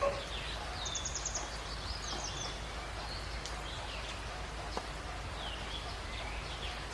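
Several wild birds chirping and calling together, with a quick run of repeated high notes about a second in and short falling whistles, over a steady background hiss.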